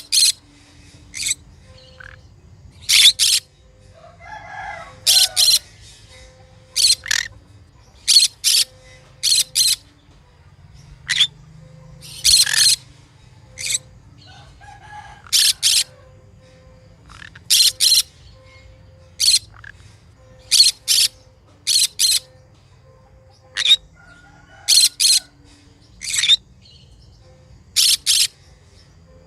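Green conure calling over and over in short, sharp, high-pitched calls, often in quick pairs, about one every second or so, with a few softer, lower chattering sounds in between.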